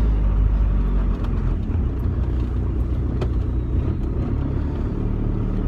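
A 1.9-litre ALH four-cylinder turbodiesel with a 2.5-inch straight-pipe exhaust from the turbo back, pulling in first gear, heard from inside the car's cabin with the window cracked. It is a steady low, deep rumble that dips briefly about a second in.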